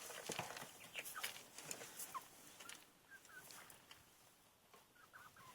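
Domestic hens making a few short, soft clucks, with a run of quick sharp taps during the first couple of seconds.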